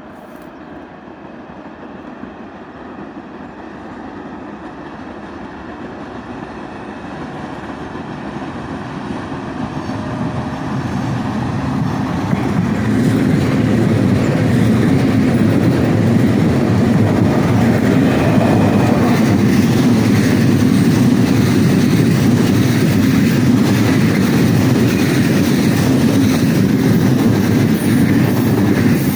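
4ES5K "Ermak" electric locomotive hauling a heavy freight train up a mountain pass, approaching and growing steadily louder for about the first 13 seconds, then running past at a steady level with the noise of its wheels on the rails.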